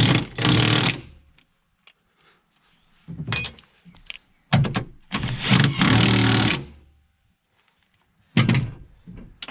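Impact wrench tightening the mower deck's bolts in five or six short bursts, each up to about a second and a half long, with short pauses between.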